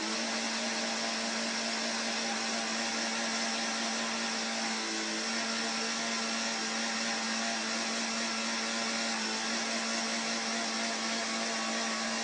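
A small hatchback's engine held at high, steady revs while the car inches in and out of a parking space: one constant high-pitched drone that does not change.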